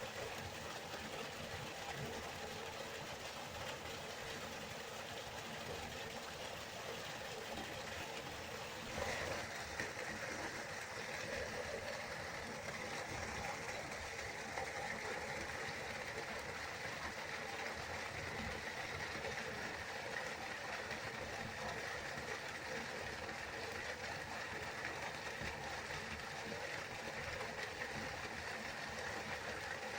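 Waterfall: a steady rush of falling water, with one brief louder moment about nine seconds in.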